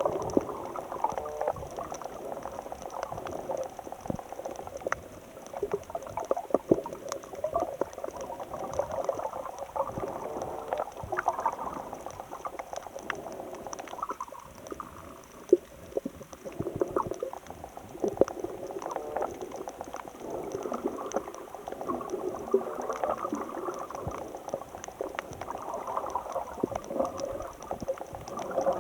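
Bubbling, gurgling water with many scattered short clicks and crackles, uneven throughout and without a steady rhythm.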